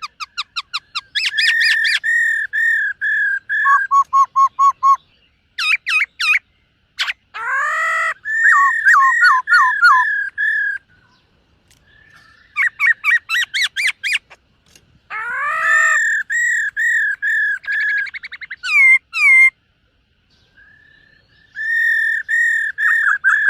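Black-throated laughingthrush singing loud phrases of quick, repeated whistled notes, with short pauses between phrases.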